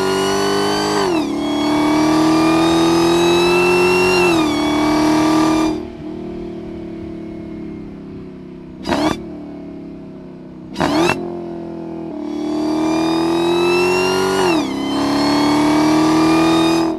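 Dodge Challenger Hellcat's supercharged 6.2-litre V8 exhaust at high revs, the pitch climbing slowly and dropping sharply about a second in and again around four seconds. It falls back to idle, is blipped twice, then climbs to high revs again with another sharp drop.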